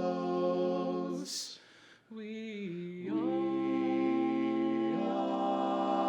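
Male barbershop quartet singing a cappella in close harmony: a held chord cuts off about a second in, a breath follows, then a soft chord that swells into a long sustained chord from about halfway through.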